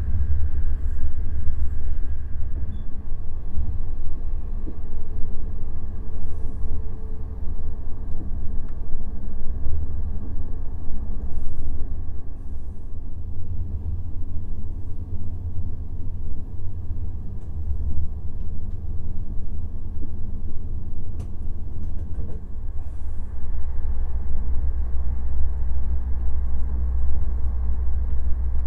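Steady low rumble of a Chinese express train's sleeper coach running along the rails.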